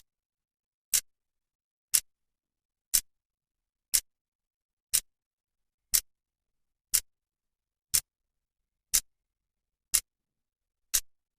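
Clock's second hand ticking, one sharp click each second.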